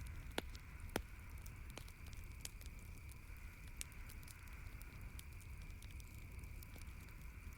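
Campfire crackling: scattered sharp pops and snaps, the two loudest about half a second and a second in, over a steady low rumble and hiss.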